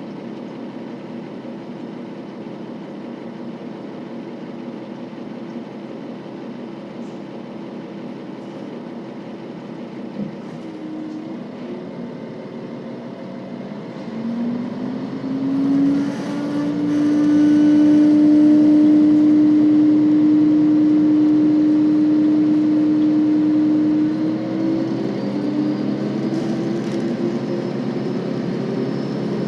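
KiHa 40 series diesel railcar's engine running, which revs up with a rising tone about halfway through, holds loud at a steady pitch for several seconds, then drops back near the end.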